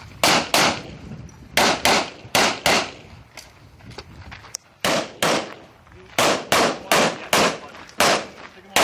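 Glock 34 9mm pistol fired rapidly, about fifteen shots mostly in quick pairs a third of a second apart.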